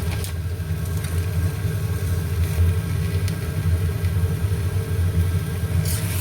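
Kitchen range hood extractor fan running with a steady low motor hum.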